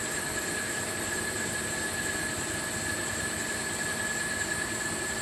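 CNC machine running a machining cycle: a steady whine over an even hiss.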